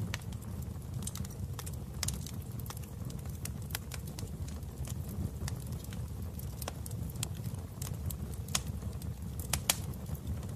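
Wood fire in a fireplace burning, with a steady low rumble and irregular sharp crackles and pops about once a second.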